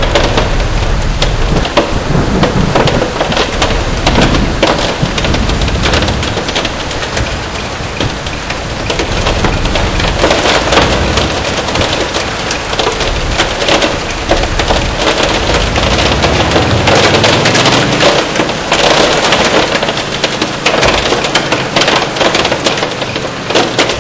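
Heavy rain and hail pelting a car's roof and windshield: a dense, loud clatter of countless small hits.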